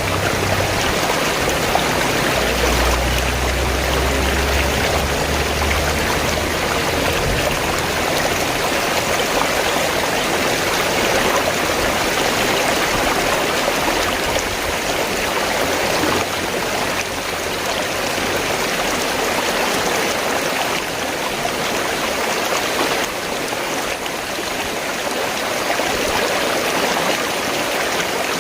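River water flowing steadily, an even hiss of moving water, with a low rumble for a few seconds near the start.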